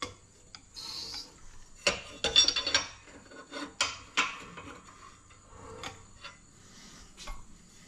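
Irregular metallic scraping and clinking as a piece of steel plate and tools are handled, with a short burst of rattling about two seconds in.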